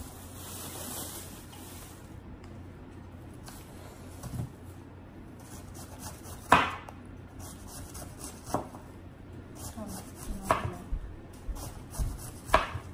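Sharp knocks of kitchen work, like a knife chopping on a cutting board, coming about every two seconds from the middle on.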